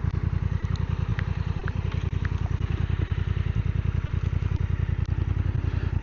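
Motorcycle engine running steadily while riding, with a fast, even exhaust beat.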